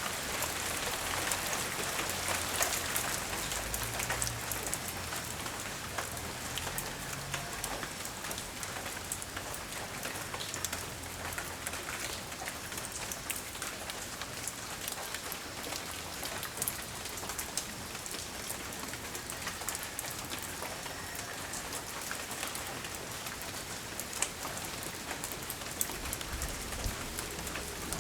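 Light rain falling steadily, an even hiss with many scattered drops ticking sharply close by.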